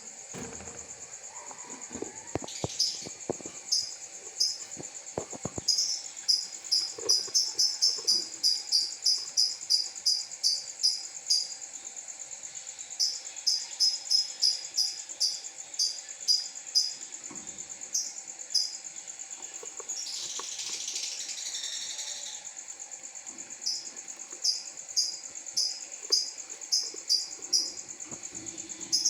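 Newly hatched lovebird chicks peeping: runs of short, very high chirps at about two a second, pausing now and then, over a continuous shrill high tone. About twenty seconds in there is a brief rustle.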